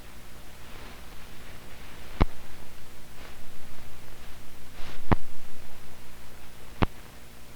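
Hiss and low hum of an old newsreel film soundtrack with no programme sound, broken by three sharp pops spread through the stretch, typical of dust and splices on the film.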